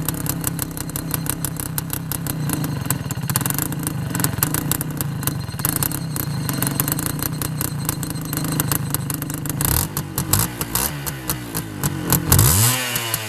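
Motorcycle engine idling steadily with a busy, rapid firing beat, then revved up and down in several throttle blips over the last few seconds, the highest rev near the end.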